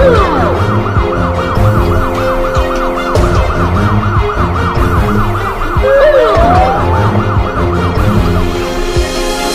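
Police car siren in a fast yelp, rising and falling about three to four times a second, over background music; it cuts off near the end.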